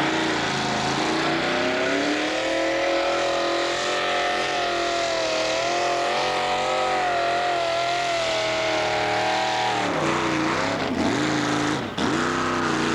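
Multi-engine pulling tractor with three 454 big-block V8s running hard at high, steady revs under load, the pitch wavering slightly. About ten seconds in the revs drop and surge several times as the driver backs off the throttle.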